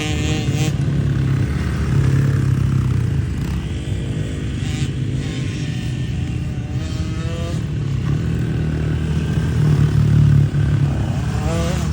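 Motocross dirt bike engines revving, the pitch rising and falling repeatedly as the bikes ride the track. The sound is loudest about ten seconds in, then drops suddenly for a moment.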